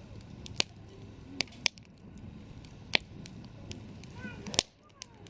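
Wood campfire crackling: a low steady rumble of the flames with a handful of sharp, loud pops from the burning wood.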